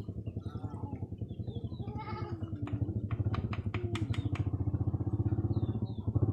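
A small engine runs steadily with a fast, even pulsing. About two seconds in, a wavering bleat-like call rises over it, followed by a quick run of sharp clicks.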